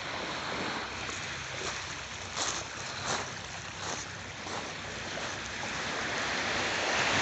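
Waves washing on a beach, heard as a steady rush with wind. A few brief crunches come in the middle.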